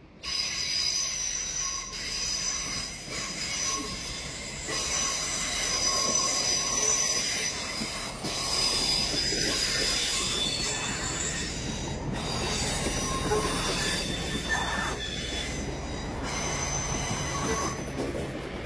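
A train rolling through the station with its steel wheels squealing on the rails over a steady rumble. The squeal is high-pitched, several tones at once, fading and returning throughout.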